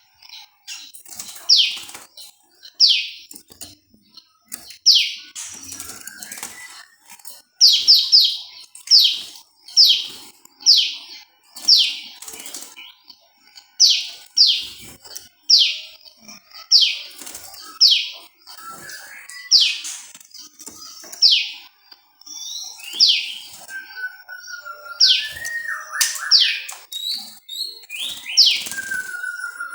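Prenjak lumut, a small Indonesian prinia-type songbird, calling over and over with loud, sharp notes that sweep steeply downward, about one a second and sometimes two or three in quick succession. In the last few seconds, lower warbling notes and chatter join the calls.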